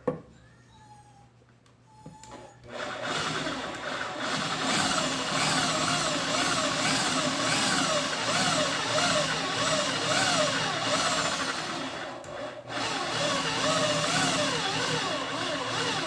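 Small electric motor of a mini drill press running, its pitch wavering up and down, with a brief dip about twelve seconds in. A sharp click at the very start.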